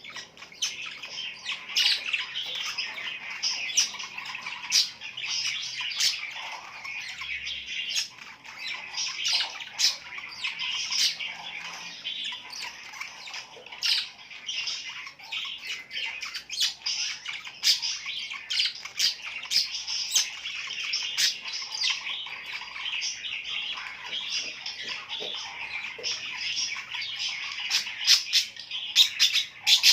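A flock of small birds chirping and squawking together in a dense, continuous chatter of short, sharp calls.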